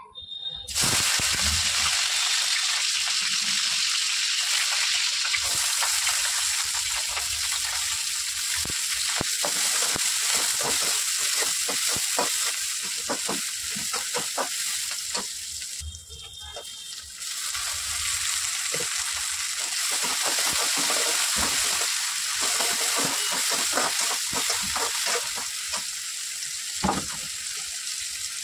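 Chopped onions and green chillies sizzling in hot oil in an iron kadai, the sizzle starting suddenly about a second in as they hit the oil. A metal spatula scrapes and taps against the pan again and again as they are stirred, with a short lull near the middle.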